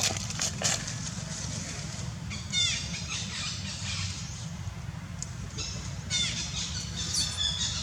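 Macaque squealing in two bursts of short, high, downward-sliding calls, about two and a half seconds in and again about six seconds in, over a steady low rumble.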